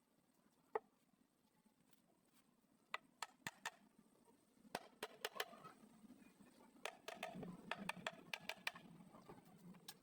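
Faint, scattered clicks and light knocks, a few at first and coming thicker and closer together from about five seconds in.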